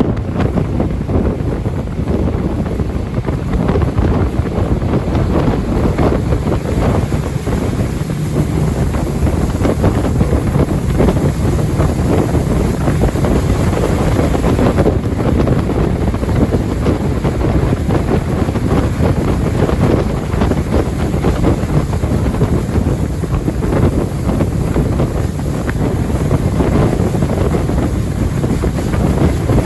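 Jet boat running at speed on a river, its engine and jet drive mixed with the rush of water and heavy wind buffeting the microphone, steady throughout.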